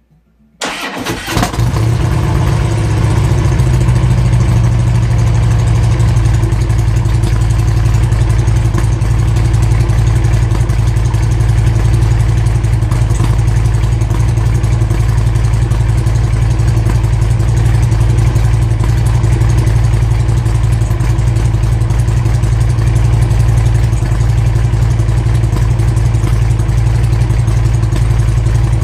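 2016 Harley-Davidson Street Glide (FLHX) V-twin with its catalytic converter removed and Cobra Neighbor Hater mufflers starts about half a second in and settles into a steady, deep, loud idle.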